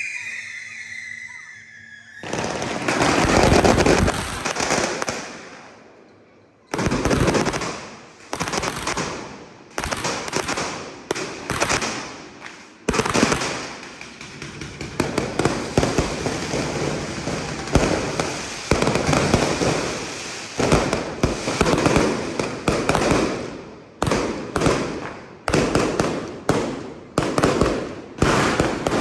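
Fireworks going off in a fast series of bursts, roughly one a second and closer together later, each bang dying away. A whistle-like tone fades out about two seconds in, before the first burst.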